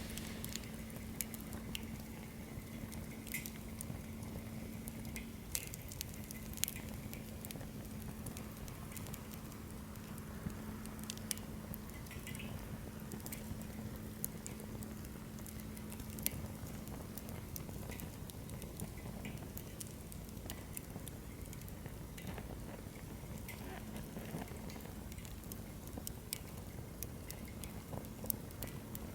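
Wood campfire crackling, with irregular sharp pops over a steady low rush of flame.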